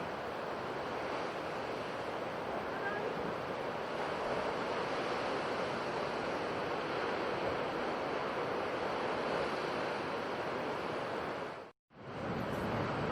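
Sea surf washing steadily, a continuous noisy rush with no distinct breaks between waves. The sound cuts out for a split second near the end and then resumes.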